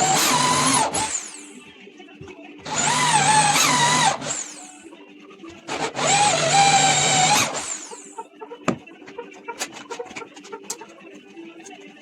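A power drill runs in three bursts of about a second and a half each, its whine sagging and recovering in pitch within each burst. After that come a few light clicks and knocks, over faint background music.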